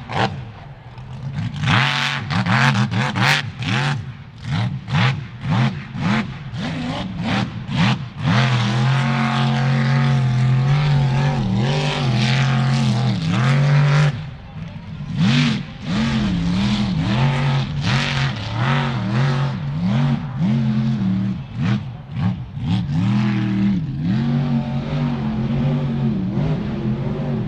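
Off-road truck engine revving hard: choppy blips at first, then held at high revs for several seconds, then rising and falling again and again, with sharp clatters among the revs.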